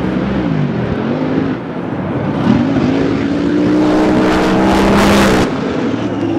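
Drag boat engines revving, then climbing in pitch and holding at full throttle for about three seconds before cutting off suddenly near the end of the run.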